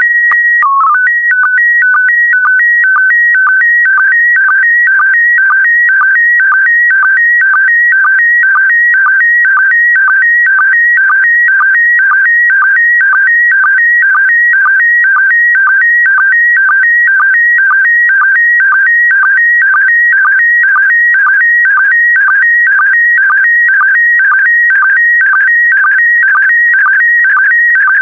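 PD120 slow-scan television (SSTV) signal beginning an image transmission. It opens with a short steady whistle tone and a brief lower blip, which is the calibration and mode header. It then settles into a warbling of tones that repeats about twice a second: the sync pulses and scan lines of the picture being sent.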